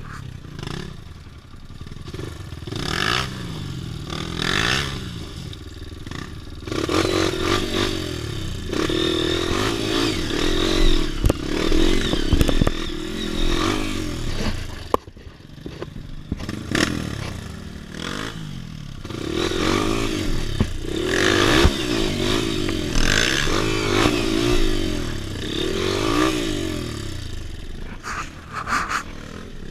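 Off-road motorcycle engine revving up and easing off again and again as it rides a trail, with sharp knocks and clatter from the bike going over rough ground.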